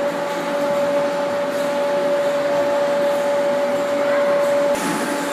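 Electric train at an underground railway platform: a steady electrical whine over a rumbling hiss. The whine breaks off with a click near the end.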